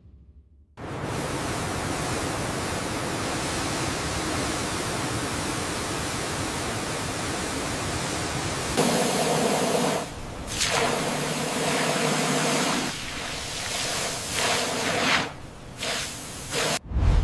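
A loud rushing hiss that starts abruptly just under a second in, runs steadily for about eight seconds, then breaks into several shorter stretches that start and stop.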